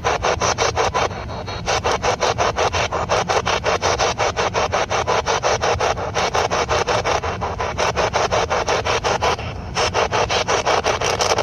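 Spirit box sweeping rapidly through radio stations: a fast, even chopping of radio static, several bursts a second. It goes quieter briefly about a second in and again near the end.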